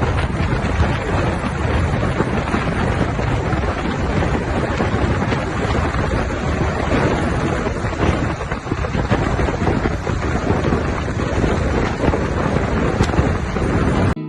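Wind rushing over the microphone: a loud, steady rush with no clear tone that cuts off suddenly near the end.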